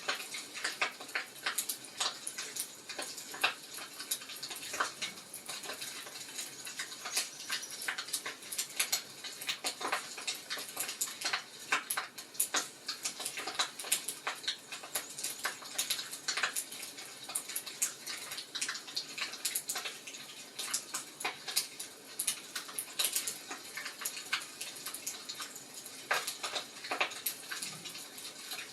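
Wood fire crackling, with many small irregular pops and snaps over a soft hiss.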